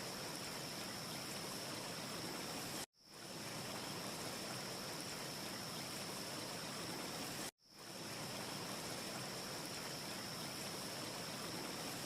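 Steady hissing noise with a thin, even high tone on top, and no crackle in it. The sound cuts out abruptly about 3 seconds in and again about 7.5 seconds in, each time fading back in over about a second: a short ambience loop restarting.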